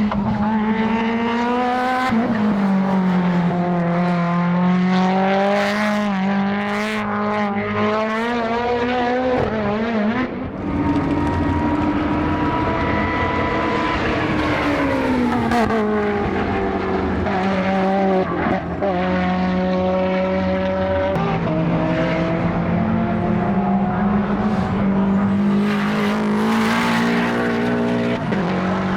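Modified time-attack race car engine running hard on a circuit. Its pitch climbs under acceleration and falls away under braking, with abrupt drops at gear changes about ten and eighteen seconds in.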